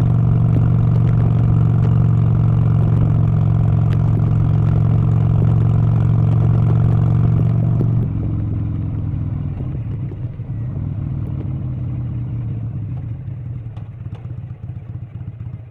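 An engine running steadily and loudly, then dropping abruptly to a lower, rougher sound about halfway through and fading away.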